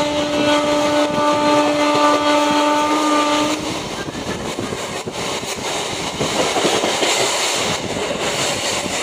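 Local passenger train running at speed, heard from an open coach doorway: steady noise of wheels on rail and rushing air. A steady pitched tone sounds over it for the first three and a half seconds, then stops.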